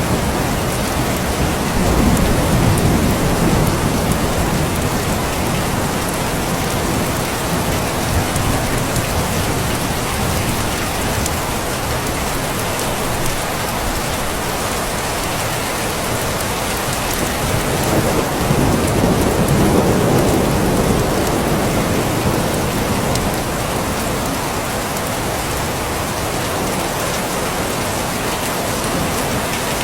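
Steady heavy rain falling, with low rolls of distant thunder swelling about two seconds in and again about two-thirds of the way through.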